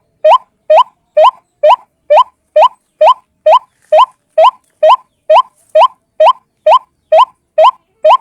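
White-breasted waterhen (ruak-ruak) call played on loop as a bird-trapping lure: one short rising note repeated evenly, about two and a half times a second.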